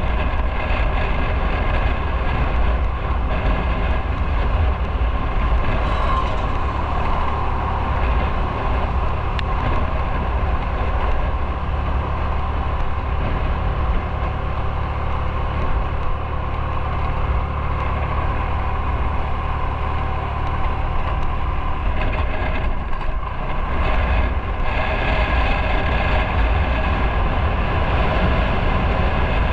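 Motorcycle on the move: steady engine noise and heavy low wind rumble on the bike-mounted microphone, easing briefly about three-quarters of the way through.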